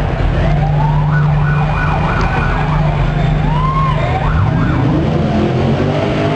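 A race car's engine running at idle, then revved several times from about four seconds in, with high rising-and-falling whoops from a crowd over it.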